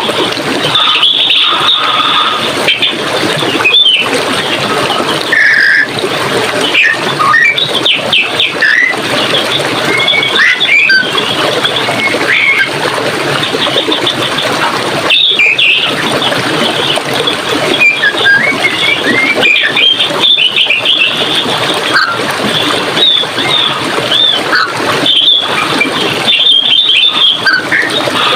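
Running water rushing steadily, with many birds chirping in short, high calls over it throughout.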